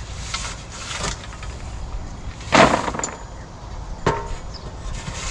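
A shovel scraping and knocking as old litter is scooped out of a chicken coop, with one louder scrape about two and a half seconds in.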